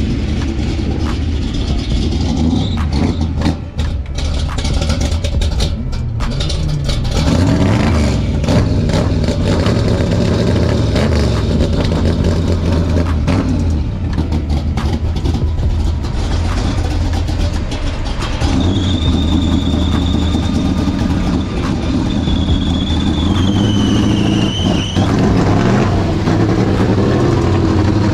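Car engine running just after a cold start, still a little rough and blipped up and down a few times as it warms. A high whistle holds for several seconds in the second half, then drops in pitch and stops.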